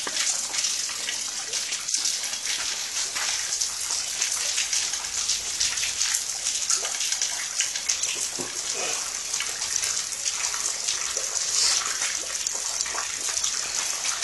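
Steady rain falling: an even, high hiss made up of many small drop splashes.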